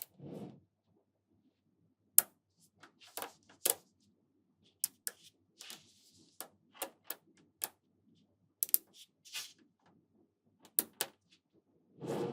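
Small magnetic balls clicking sharply as they snap together one by one at an irregular pace, with a softer rattle of balls near the start and again near the end.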